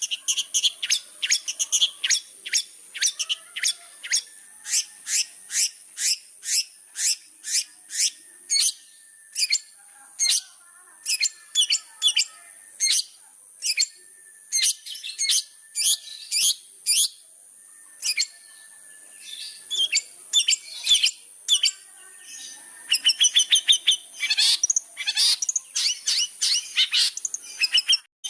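Long-tailed shrike (cendet) in full song: a fast series of sharp, repeated chirping notes, about two to three a second. The notes ease off briefly in the middle, then break into a denser, rapid chatter in the last few seconds, over a steady high-pitched hiss.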